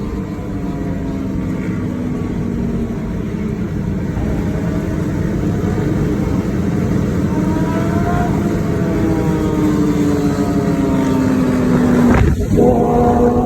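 Motorcycle exhaust running at road speed, the engine note slowly rising and falling, with a brief break and sharp blip about 12 seconds in before it carries on at a steady pitch.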